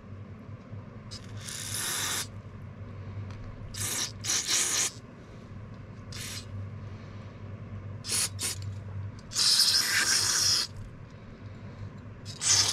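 Aerosol carb and choke cleaner sprayed in several short hissing bursts into an old generator's carburetor to dissolve deposits in its ports, the longest burst about a second long, over a steady low hum.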